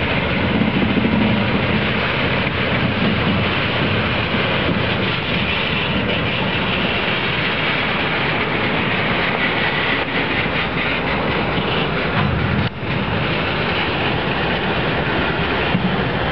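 Freight train rolling past on the rails, a steady noise of wheels on track with a brief drop in level about three-quarters of the way through.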